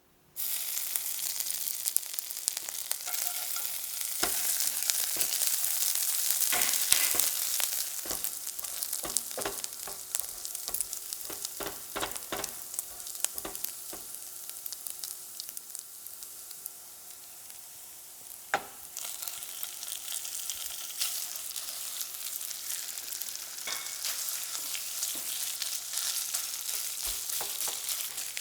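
Food sizzling in a hot frying pan while being stirred, the utensil clicking and knocking against the pan. The sizzle starts suddenly, eases off in the middle, and picks up again after a sharp knock about two-thirds of the way through.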